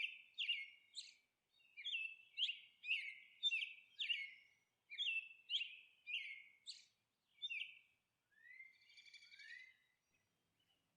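Faint small-bird chirping: a quick run of short chirps, two or three a second, then a few sliding calls about eight seconds in.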